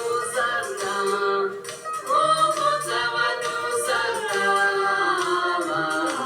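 A group of voices singing a gospel song in harmony, with long held notes.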